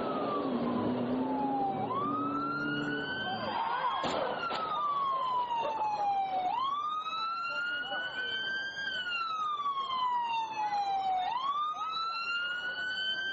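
Police car siren wailing, its pitch rising and falling slowly in long cycles of about four to five seconds. Heavier traffic noise fills the first few seconds, and there is one sharp crack about four seconds in.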